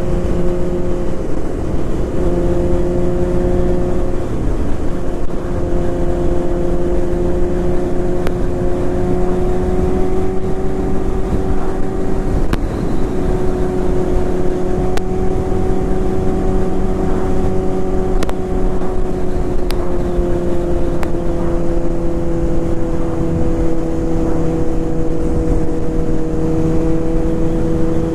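Suzuki GSX-R 600 inline-four engine running at a steady cruising speed, heard from the rider's seat, its pitch creeping up a little and then easing slightly lower past the middle, under a constant rush of wind and road noise.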